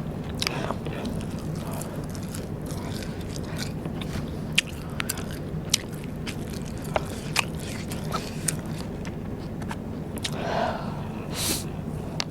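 Close-up eating of Vietnamese rice paper snacks: chewing with scattered sharp crisp crunches, over a low steady hum.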